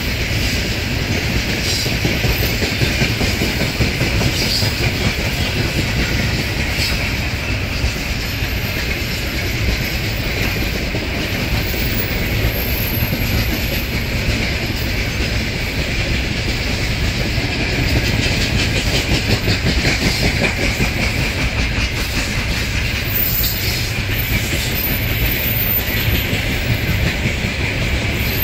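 A freight train's open gondola wagons rolling past, their steel wheels running steadily on the rails with occasional knocks.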